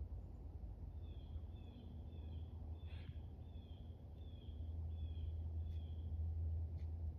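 A bird calling a series of about eight short, falling chirps, roughly one every 0.7 seconds, over a steady low rumble.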